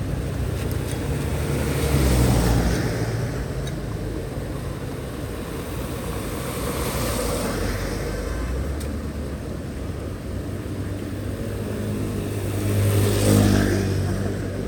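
Road vehicles passing by, three times: each one swells up and then fades away, over a steady background rush.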